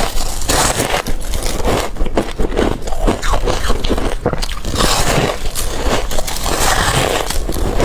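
Close-up crunching of hard crushed ice being bitten, a rapid run of sharp cracks and grinding crunches one after another.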